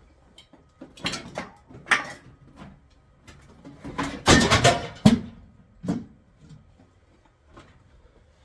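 A series of clanks, knocks and scrapes as things are handled and moved about on a garage table, loudest in a cluster about four to five seconds in.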